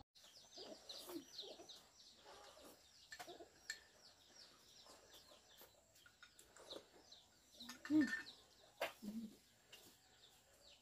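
Faint, continual twittering of small birds: quick high chirps, several a second. A few soft clicks and a brief low call or voice sound come about eight seconds in.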